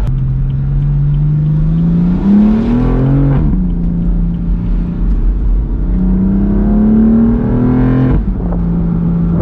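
2015 BMW M4's twin-turbo straight-six accelerating, its exhaust note climbing in pitch and dropping sharply at two upshifts, about three seconds and eight seconds in. Loud.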